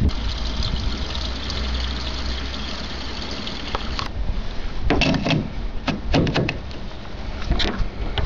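Ford 289 V8 with a four-barrel carburettor and Edelbrock headers idling steadily on a cold start after sitting for a year and a half. Several short knocks and clacks come over the engine about four to seven and a half seconds in.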